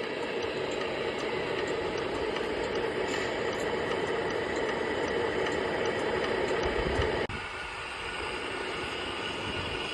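Steady running noise of a 1:14 scale Tamiya RC truck, changing suddenly about seven seconds in to a quieter, thinner running sound.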